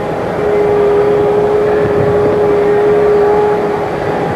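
A steady machine hum: one held tone over a rough rumble, keeping an even level.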